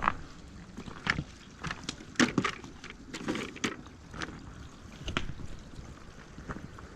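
Irregular sharp knocks and cracks of firewood being handled, about a dozen over several seconds, the loudest a little past two seconds in.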